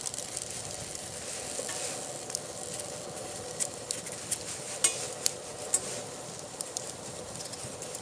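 Campfire crackling: a steady hiss with scattered sharp pops and snaps.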